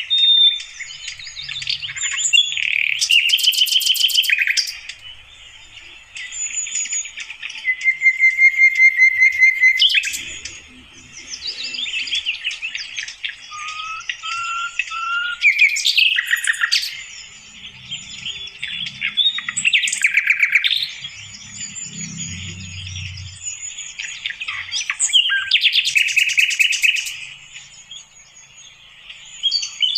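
Sikatan londo flycatcher singing in the wild: a busy run of chirps and thin high whistles, broken every few seconds by a loud burst of rapid chattering trills.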